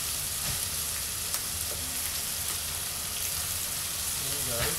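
Chicken and chicken livers sizzling in hot oil in a pan. A metal spoon stirs them, knocking against the pan a couple of times.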